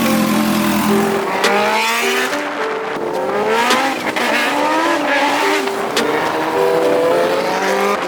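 Kawasaki H2's supercharged inline-four engine pulling up through the gears. The pitch climbs, drops at each upshift and climbs again, several times over.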